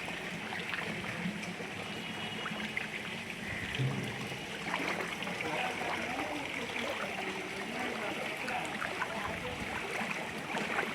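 Floodwater flowing, a steady rushing wash of water.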